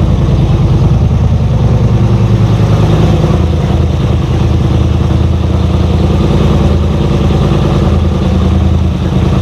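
Big Red's engine running at a steady idle through a nearly straight-piped exhaust, loud and evenly pulsing, after an hour and a half on an engine heater.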